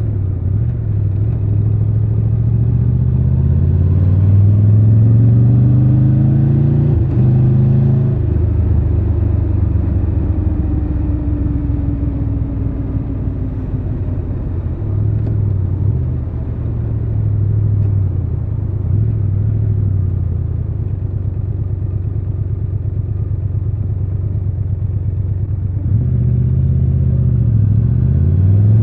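Triumph Tiger 1200 Rally Pro's three-cylinder engine under way. The revs climb over the first few seconds, hold, fall away around ten seconds in, run steady and lower for a while, then climb again near the end.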